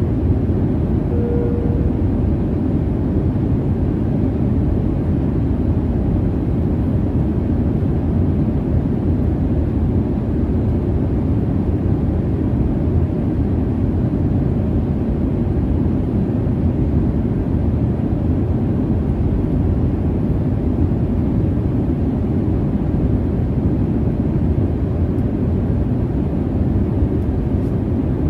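Jet airliner cabin noise in flight: a steady, deep rumble with no change in level. A brief steady tone sounds once, about a second in.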